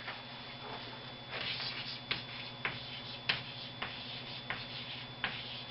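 Marker writing on a whiteboard: a short scratchy stroke about a second in, then about six quick taps and short strokes.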